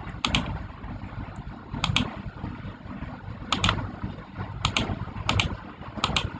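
Keys being pressed on a keyboard, about six short clicks, mostly in quick pairs, spaced a second or so apart over a low steady hum.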